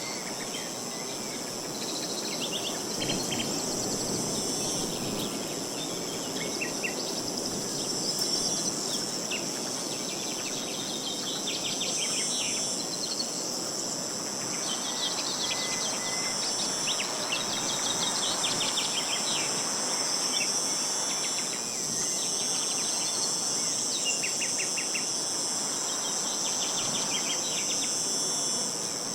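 A steady high-pitched chorus of insects, with birds calling in short rapid trills and chirps over a soft rush of wind.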